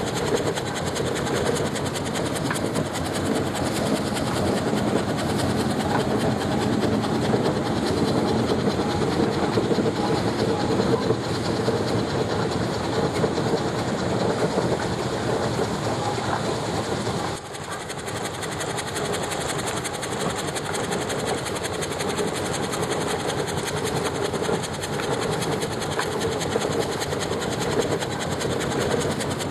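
Steam traction engine running on the road with a steady mechanical clatter, which dips briefly a little past halfway.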